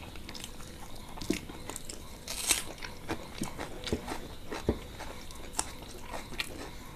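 Close-miked eating sounds of people eating rice and chicken curry by hand: wet chewing and lip smacks, heard as many short, irregular clicks, with a louder cluster about two and a half seconds in.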